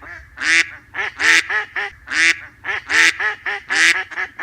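Duck quacking, a rapid run of short, nasal quacks, about two or three a second.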